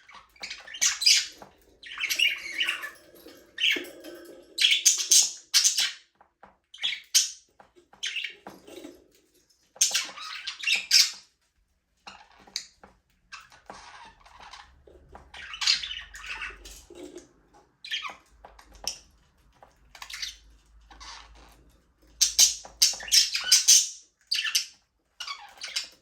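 Budgerigars chattering and squawking in an aviary: short, high chirps and harsh calls in irregular bursts, with brief pauses between them.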